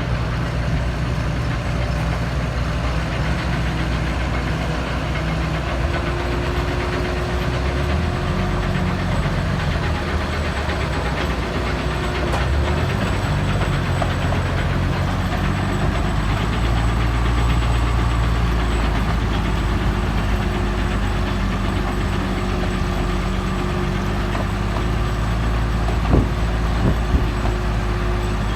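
Tractor engine running steadily, pulling a Krone round baler, heard from inside the closed cab. The engine note shifts in pitch a couple of times as the load changes, and there are two sharp knocks near the end.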